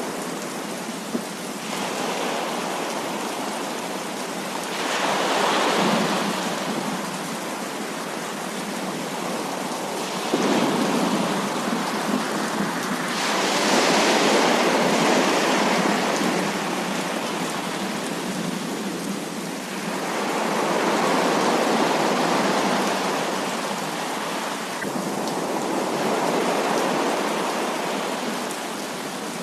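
Heavy rain falling steadily, swelling louder and easing back every several seconds.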